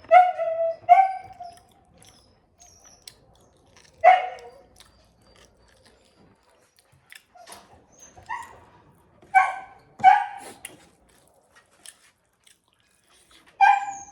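A dog barking: about seven short, sharp barks, two close together at the start and the rest spread out with pauses of a few seconds between them.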